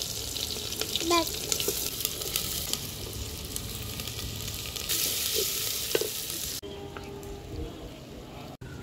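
Sliced onions and green chillies frying in hot fat in a clay pot, with a steady sizzle and a wooden spatula stirring. The sizzle cuts off abruptly about two-thirds of the way through.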